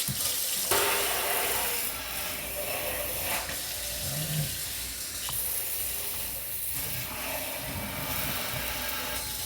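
Water running from a kitchen faucet into a sink, a steady hiss that gets brighter and louder about a second in.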